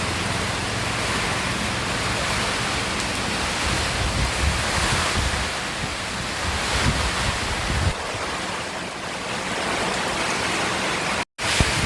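Strong typhoon wind with heavy rain, a loud steady rush that surges in gusts, with a low rumble of wind on the microphone until about eight seconds in. The sound cuts out for an instant near the end.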